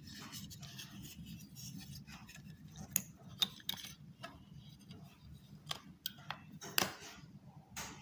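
Small plastic wireless mouse and its parts being handled: light scraping and rustling broken by a series of sharp clicks, the loudest about three seconds in and again near the end.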